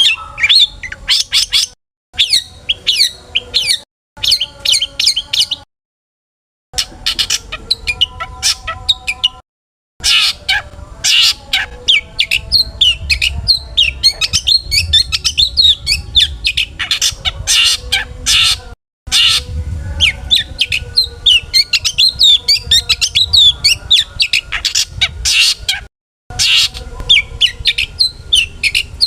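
Long-tailed shrike (cendet) singing fast and excitedly, a dense stream of sharp chirps, trills and mimicked calls. The song breaks off abruptly into dead silence several times and starts again.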